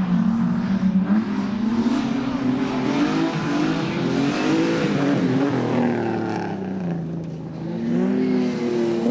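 Rally car engine revving hard, its pitch rising and falling repeatedly, dropping back briefly about seven seconds in before climbing again.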